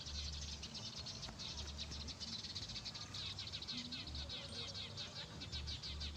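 Many small birds chirping in a busy, continuous chatter of rapid high chirps.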